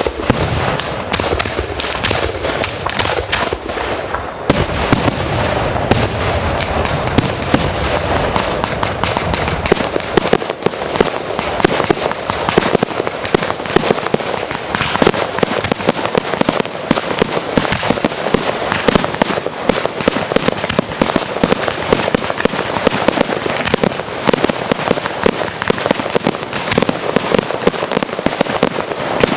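A fireworks display in a dense, nonstop barrage of bursts and crackling. Deep booms are heavy for about the first ten seconds, then the sound turns mostly to rapid crackling pops.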